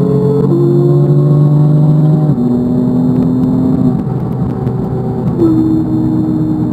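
2018 BMW M4 Competition's twin-turbo inline-six pulling hard in fourth gear. About two seconds in, an upshift to fifth drops the engine note, and it runs on at high speed in fifth with the throttle easing near the end.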